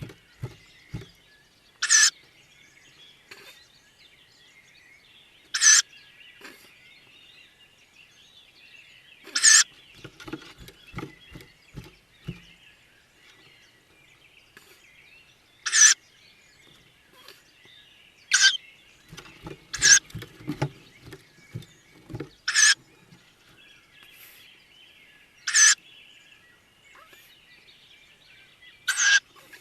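Tawny owlets calling in a nest box: about nine short, loud, hissing begging calls, one every few seconds. Between them come soft scratching and knocking as the chicks shuffle on the box floor.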